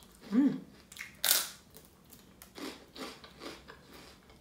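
Crunching and chewing a mouthful of light, crisp corn crispbread. There is one loud crunch just over a second in, then several softer crunches, and a brief hum from the eater near the start.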